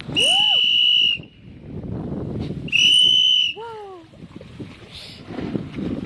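Whistle blown in two long, steady, high-pitched blasts, about two seconds apart: the signal that calls trained murrel fish in a rearing pond together to be fed.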